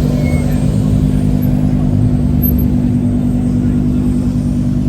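Vehicle engine running steadily with a low, even drone that holds the same pitch throughout.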